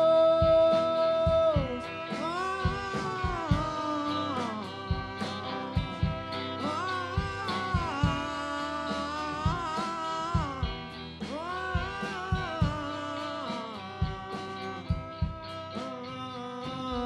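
Live band music: a long held sung note ends about two seconds in, then an instrumental passage of melodic phrases with bending, gliding notes over a steady drum beat.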